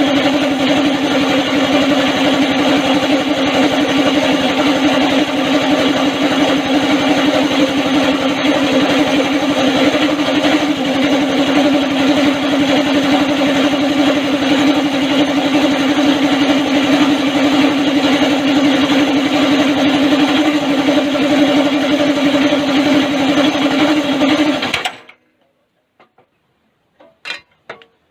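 A motor running at one constant, unchanging speed with a steady buzzing tone, which cuts off suddenly near the end; a few light metallic clinks follow.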